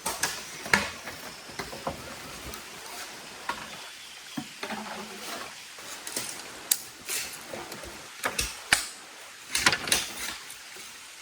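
Irregular sharp knocks and clicks, a dozen or so at uneven spacing, over a low steady background noise.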